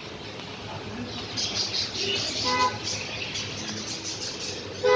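Small birds chirping rapidly over a steady background hum of traffic, with a short vehicle horn toot about halfway through and a louder one at the end.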